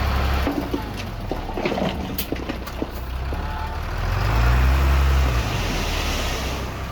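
Heavy construction machine's diesel engine running, with scattered clanks and knocks over the first few seconds. About four seconds in the engine revs up and then settles back down.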